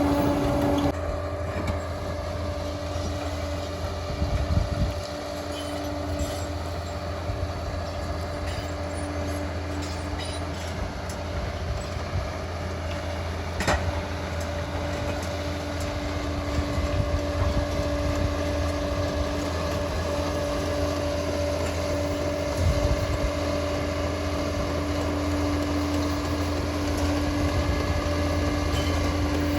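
Liebherr PR 746 crawler dozer's diesel engine running under steady load, a constant low drone with a steady whine over it. A single sharp click stands out about halfway through.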